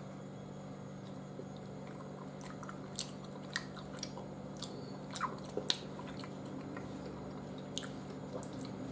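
A person biting and chewing a soft, sticky Turkish delight (lokum) roll coated in powdered sugar, with a few short wet mouth clicks and smacks scattered through the chewing.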